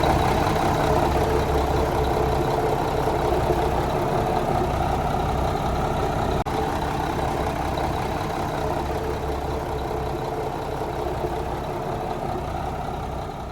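1996 Mack CH613 semi truck's diesel engine idling steadily, slowly growing quieter and fading out at the end.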